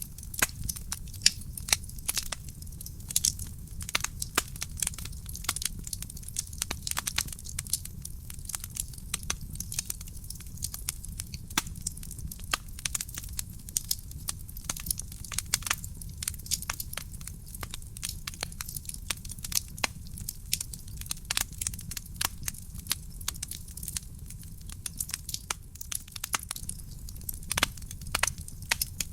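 Wood fire burning in a fireplace: dense, irregular crackles and pops from the burning logs over a steady low rumble of the flames.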